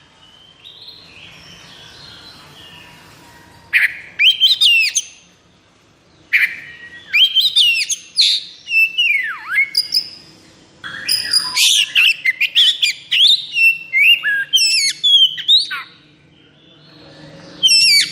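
Oriental magpie-robin (kacer) singing: loud phrases of rapid whistles that sweep up and down, with quick trilled and chattering notes and short pauses between phrases. The song is quieter for the first few seconds, then comes in strong bursts.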